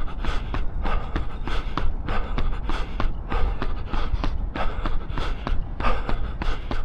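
A runner's footfalls at a steady fast cadence, about three a second, with hard, rhythmic breathing at threshold pace. A low rumble of wind on the microphone runs underneath.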